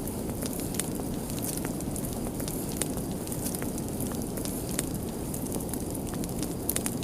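Fire crackling in a fireplace: a steady low rush of flames with frequent sharp, irregular pops and snaps.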